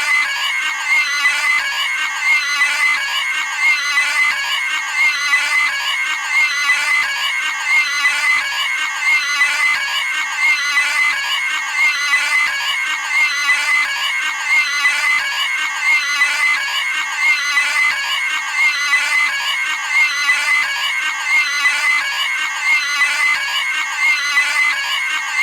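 Cartoon pig screaming: the same short squealing scream repeated over and over at an even, rapid rate as a loop.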